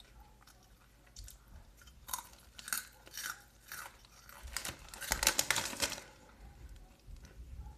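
Person chewing crunchy Fritos corn chips close to the microphone: separate crunches a couple of seconds in, then a louder, denser run of crunching around five seconds in.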